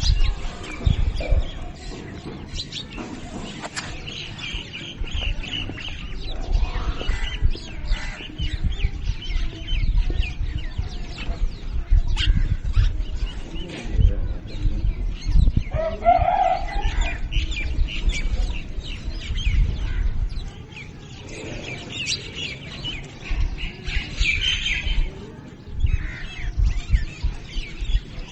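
A flock of birds feeding on scattered grain: many short chirps and calls overlapping throughout, with wing flaps and low thuds, and one louder, lower call about sixteen seconds in.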